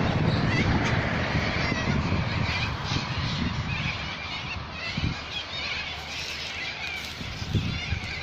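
Many birds singing, short chirps and warbles repeating all through, over a low rumble that eases after about three seconds.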